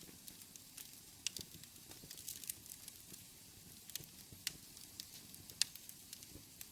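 Wood fire burning in a fireplace: a soft steady hiss with irregular sharp crackles and pops, a few louder snaps standing out.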